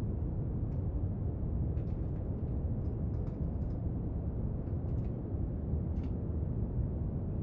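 Steady brown noise, a deep, even rushing hiss, with faint, scattered light clicks and taps from someone studying at a desk, clustered around two, three to four, five and six seconds in.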